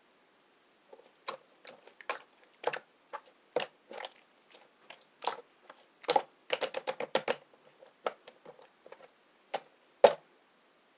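Hands squishing and poking homemade slime, making irregular crisp clicks and pops. There is a quick flurry of them about six to seven seconds in and one louder pop near the end.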